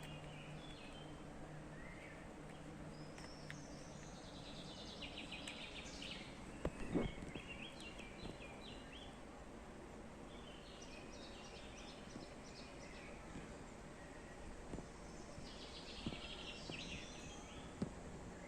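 Several birds singing: bursts of quick, trilled high phrases repeating every few seconds over a steady background hiss. A single dull thump about seven seconds in is the loudest sound, with a smaller knock near the end.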